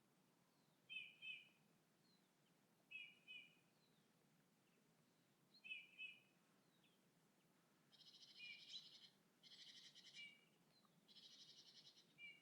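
Faint bird calls: a short double note repeated three times, then, from about two-thirds of the way in, three harsh buzzy rasping calls of about a second each, with more double notes between them.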